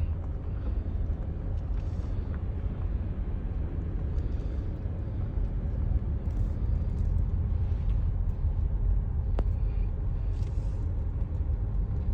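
Steady low rumble of a car's engine and tyres heard from inside the cabin while it creeps along slowly, with one faint click about three-quarters of the way through.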